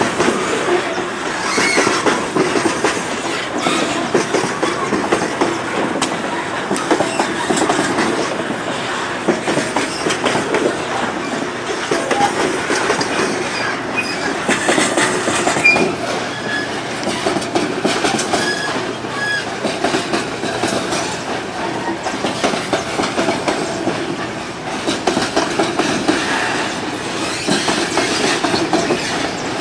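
Freight-train boxcars rolling past close by: a steady clatter of steel wheels over the rail joints, with a few brief high wheel squeals about halfway through.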